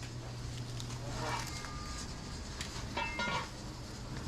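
Busy restaurant kitchen background: a steady low hum of kitchen equipment with a few sharp clinks and faint voices.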